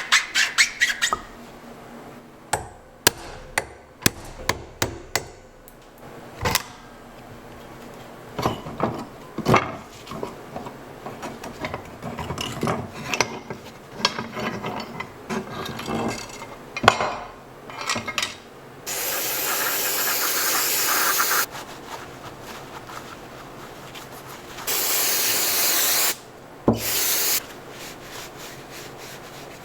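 Hand-tool work on metal parts: a string of clinks, taps and scraping. There are two steady rushing bursts of a couple of seconds each, about two-thirds of the way through.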